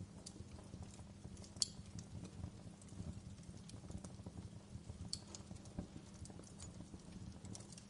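Wood fire crackling in a fireplace: a steady, irregular low crackle with scattered snaps, and two sharper pops about a second and a half in and again about five seconds in.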